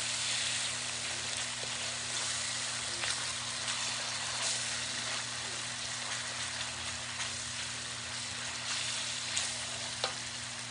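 Garlic and lemongrass spice paste sizzling in a hot metal wok while a wooden spoon stirs it, with a couple of sharp taps of the spoon on the wok near the end.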